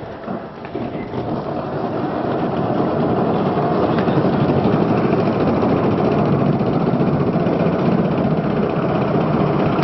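A vehicle engine running, growing louder over the first three seconds and then holding steady.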